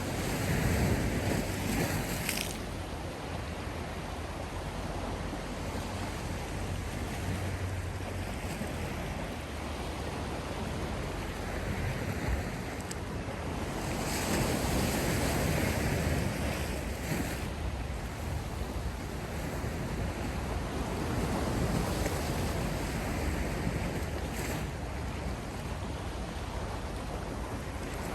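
Sea surf: waves breaking and washing in, the rush swelling louder several times and then easing, with a steady low rumble beneath.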